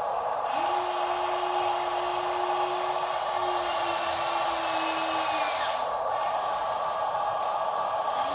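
Small electric motor and gearbox of a toy RC dump truck whining steadily. A held tone starts about half a second in, sags slightly in pitch and stops about two-thirds of the way through, then starts again near the end.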